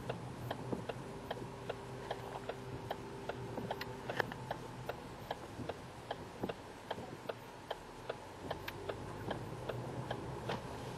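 Railroad grade-crossing warning bell striking steadily, about three strikes a second, over a low steady hum.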